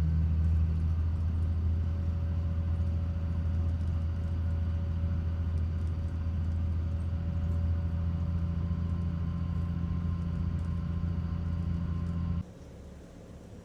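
City bus engine droning steadily, heard from inside the bus, with faint steady tones above the low drone. Near the end it cuts off suddenly to a much quieter hum.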